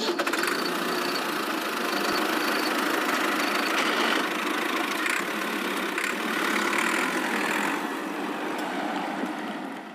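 An engine or small motor running steadily as a dense, even drone, fading out near the end.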